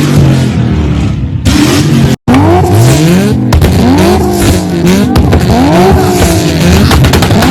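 Car engines held against a two-step launch rev limiter, revving up and falling back over and over, with a few sharp pops. The audio cuts out briefly about two seconds in.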